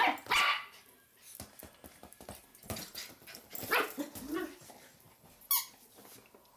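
A dog barking: one loud bark at the start, then a few quieter barks spread over the next few seconds, with small clicks in between.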